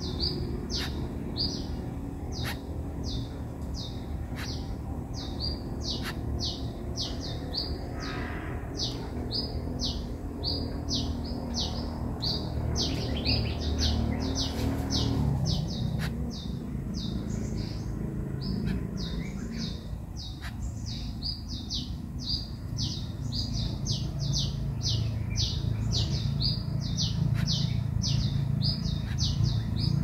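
A bird chirping over and over, short high chirps at about two a second, with a low steady rumble underneath.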